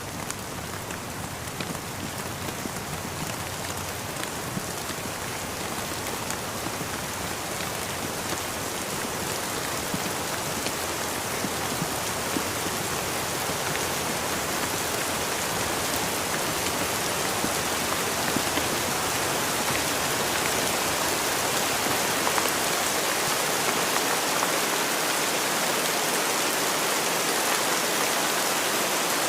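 Steady rain falling, a continuous hiss with scattered individual drops tapping, growing gradually louder.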